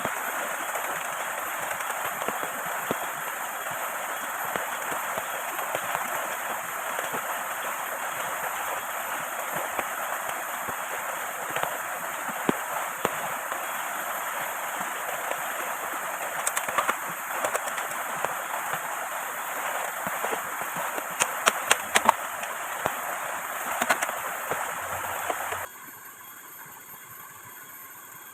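Steady rushing water, with scattered sharp taps in the second half. The sound suddenly drops to a much quieter level about three seconds before the end.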